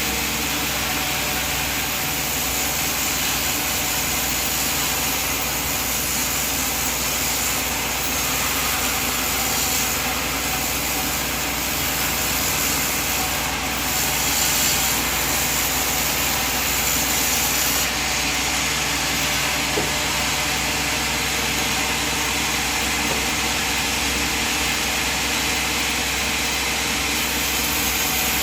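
Sawmill machine running steadily, a constant mechanical drone with a hiss that barely changes in loudness.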